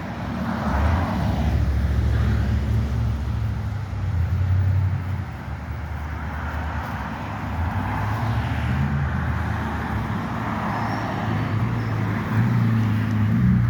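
Road traffic: several cars passing, each swelling and fading, over a steady low rumble.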